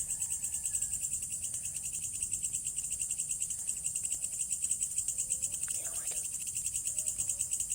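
Insect chorus of crickets trilling steadily, a high-pitched, rapidly pulsing buzz that never stops.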